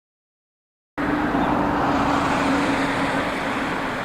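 Jet engine noise of a Boeing 737-800 on approach, its CFM56-7B engines giving a steady roar with a droning tone. It starts abruptly about a second in, and the tone drops slightly in pitch near the end.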